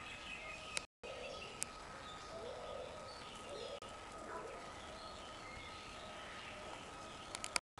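Bird park ambience: assorted birds chirping and calling faintly over a steady background hiss and a constant high-pitched tone, broken by a few sharp clicks and two brief dropouts, around a second in and near the end.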